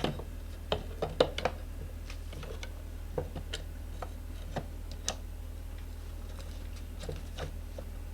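Light, irregular clicks and taps of tools on the scooter's metal wheel parts. A few sharper taps come in the first second and a half, over a steady low hum.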